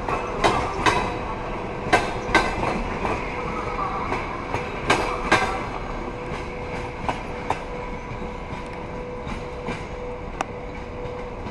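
Railway wheels clacking over rail joints, two sharp clicks close together each time as a bogie passes, over a steady rolling rumble. The clacks grow fainter and further apart, while a faint steady whine holds through.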